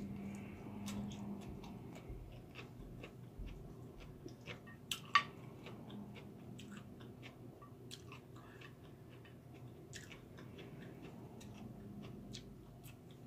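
A person chewing a mouthful of rice and vegetables close to the microphone, with scattered small clicks throughout and a sharper click about five seconds in.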